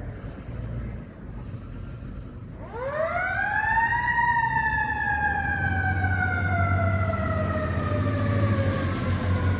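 A fire truck's siren winds up fast to a high wail a few seconds in, then slowly winds back down. Under it is a low, steady engine rumble from the responding apparatus, which grows louder in the second half.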